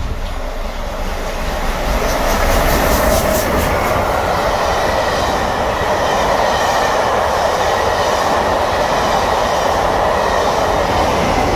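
Steam-hauled passenger train passing close by: a loud, steady rumble of the coaches rolling on the rails. It grows louder about two seconds in, with a brief run of quick regular clicks.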